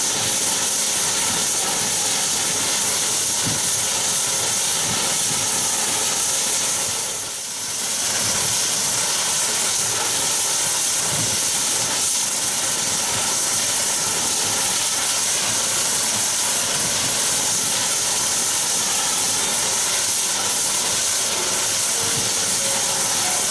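Saab 340B turboprop (GE CT7-9B) engines running, a steady high-pitched turbine whine over a hiss. The sound dips briefly about seven seconds in.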